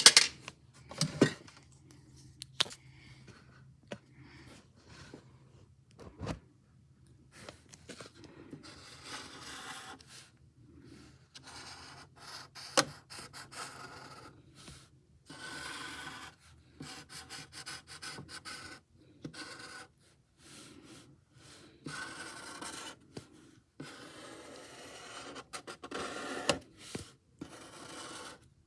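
Pen or pencil strokes scratching on paper in short runs while a drawing is coloured in, with a few light clicks.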